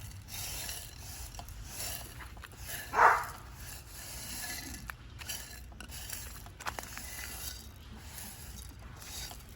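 A dog barks once, about three seconds in, over steady background noise with a few faint clicks.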